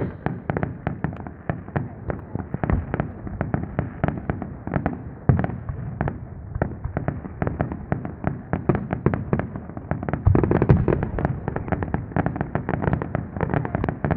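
Fireworks going off: a dense, continuous run of sharp cracks and pops, several a second, with a few deeper booms among them that are loudest about ten seconds in.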